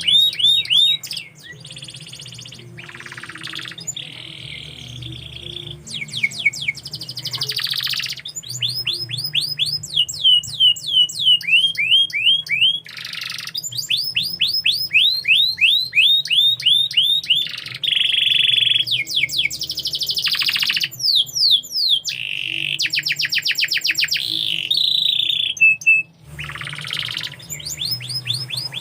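Domestic canary singing a long song made of rapid rolls of repeated downward-sweeping whistled notes, alternating with buzzy rattling trills and brief pauses.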